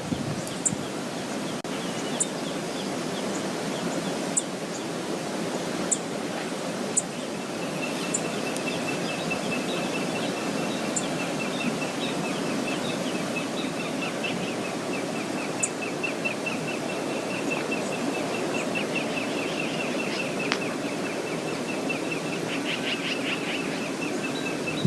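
Steady rush of Brooks Falls' waterfall and wind. Sharp high chips sound every second or two, and a small bird's rapid high trill runs on from about eight seconds in.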